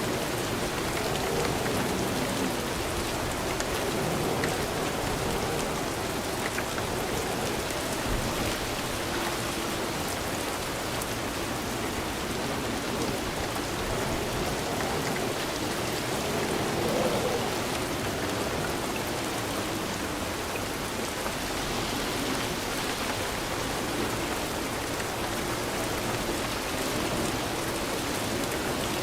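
Steady rain falling on a surface, a constant even patter.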